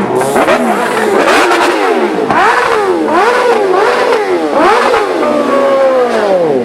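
Car engine being revved hard in quick blips, the pitch rising and falling about six times, then one longer rev that falls away near the end.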